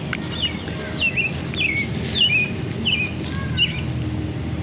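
A bird chirping over and over, short falling chirps about two a second, over a steady low rumble.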